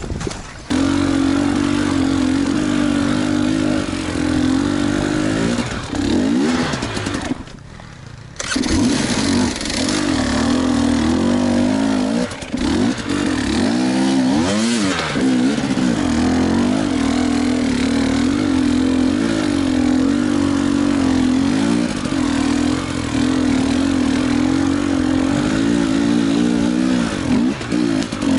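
KTM enduro motorcycle engine running under load over rough trail, its revs rising and falling with the throttle. It drops away briefly about seven seconds in, then picks up again.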